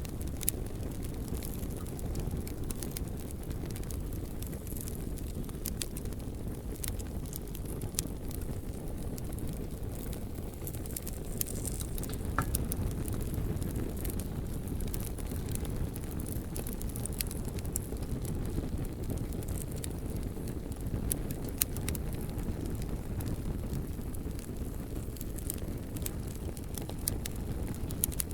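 Campfire crackling and burning: scattered sharp pops and snaps of burning wood over a steady low rumble.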